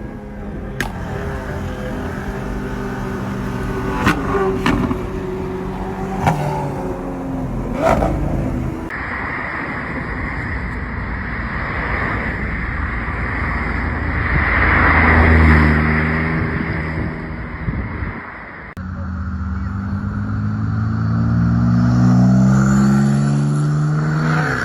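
Sports car engines revving and accelerating, heard in several cut-together clips that change abruptly twice. Four sharp pops come in the first eight seconds, a loud swell comes in the middle, and the revs climb steadily over the last few seconds.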